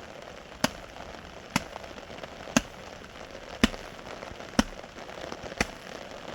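Six sharp knocks evenly spaced about a second apart, like steady blows of a hand tool, over a steady hiss of rain.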